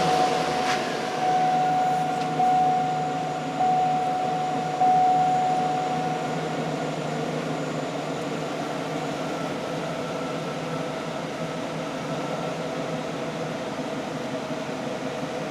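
GMC Sierra Denali 6.2 L V8 idling steadily just after starting. A steady higher tone sounds over it for about the first six seconds, with small step-ups in level about every second.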